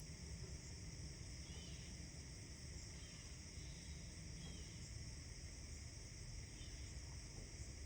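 Faint early-morning outdoor ambience: a few short, distant bird chirps every second or two over a steady high hiss and a low rumble.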